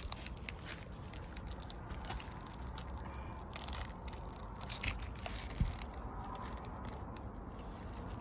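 Asphalt shingles being handled and worked into place on a roof: light scraping and crackling with scattered clicks and a couple of soft knocks about five seconds in.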